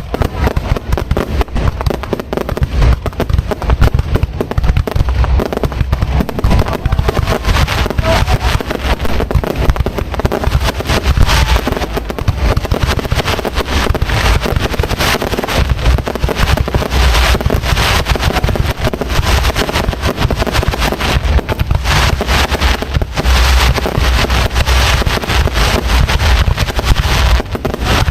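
Fireworks display at close range: a dense, continuous barrage of aerial shells bursting, with many overlapping bangs and crackles over a heavy low rumble.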